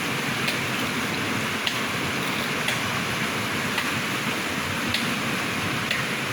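River water running steadily, an even rushing noise with small sharp ticks scattered through it about once a second.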